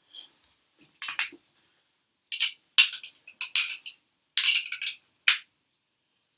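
Duplo plastic pieces clicking and clacking together as they are handled and fitted into place, in a series of short, sharp knocks.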